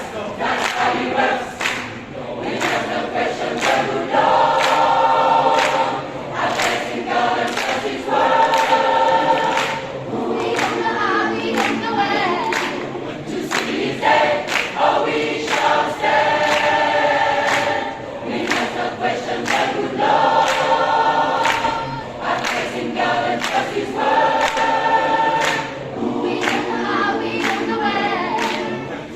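Choir singing in several parts, with chords shifting every couple of seconds, over a steady beat of sharp clicks about two a second.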